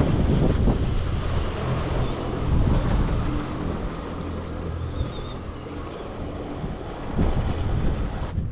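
Gusty wind buffeting the microphone, loudest at the start, with a steady low hum underneath.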